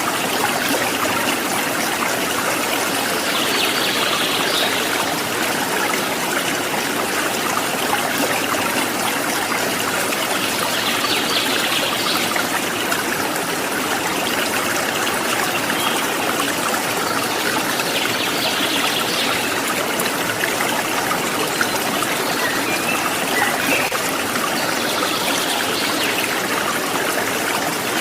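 Water trickling and flowing steadily, like a small stream, with a brief higher-pitched patch of sound recurring about every seven seconds.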